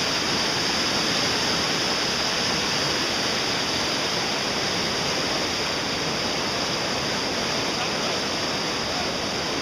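Rushing whitewater of a river rapid: a steady, even rush of water.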